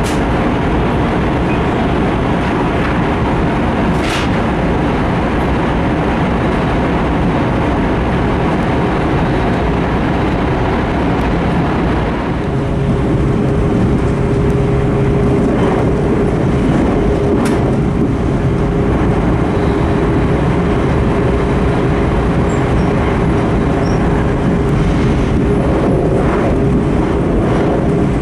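Cabin noise inside an E5 series Shinkansen running at speed: a steady rumble and rush of rolling noise. About twelve seconds in the sound changes as the train comes out of a tunnel into the open, and a steady hum runs on after that, with a couple of sharp clicks along the way.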